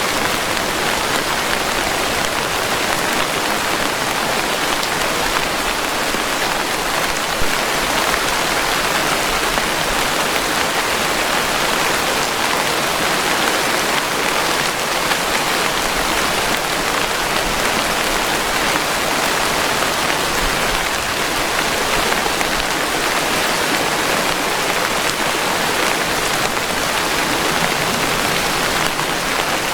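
Steady, dense rainfall: an even hiss of rain that neither builds nor fades.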